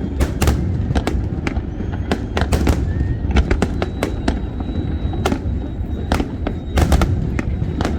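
Aerial fireworks going off in rapid, irregular succession: many sharp cracks and bangs, several clustered near the end, over a continuous low rumble of the show.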